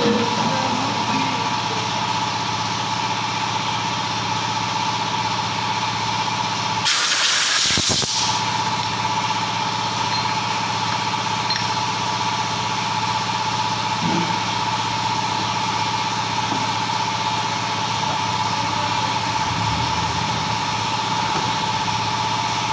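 Steady machine drone with a strong held hum, like a motor or engine running, broken about seven seconds in by a loud hiss of escaping air lasting just over a second.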